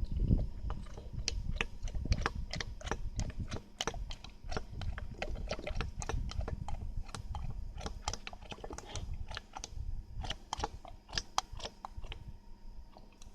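Irregular clicks and light knocks from an oil container and funnel being handled while new engine oil is poured in, with a low rumble underneath.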